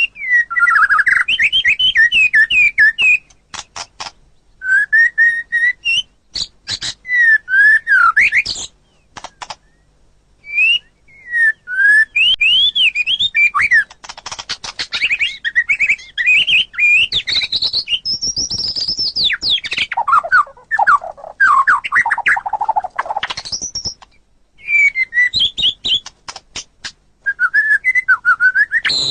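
White-rumped shama (murai batu) singing: phrases of fast, varied whistled notes sweeping up and down, mixed with sharp clicks. Partway through comes a lower-pitched run of notes, and the phrases are broken by short pauses.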